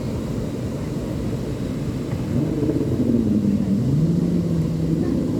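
A motor engine running over a steady low rumble of wind and surf, its pitch bending and then rising to a steady note from about halfway in.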